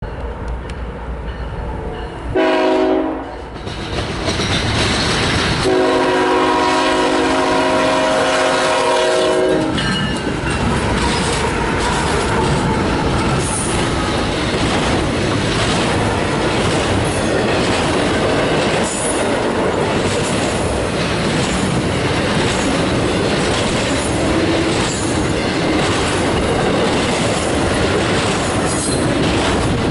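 CSX freight train's locomotive horn sounding for the grade crossing: a short blast about two seconds in, then a long blast of about four seconds. After that comes the steady rumble and clickety-clack of a long intermodal train of truck trailers on flatcars rolling past.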